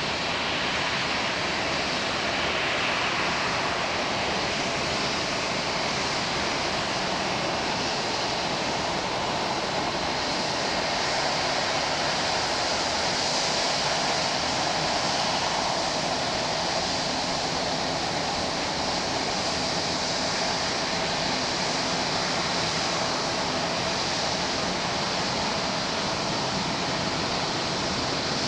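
Boeing 757-200F jet engines heard as a steady rushing roar, swelling slightly a few times.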